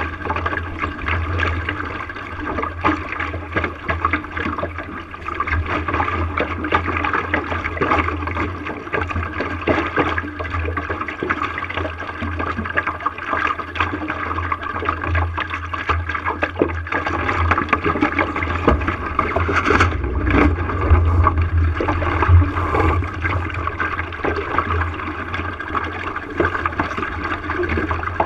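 Water rushing and splashing against the hull of a sailing boat under way, with many small irregular slaps over a steady low rumble.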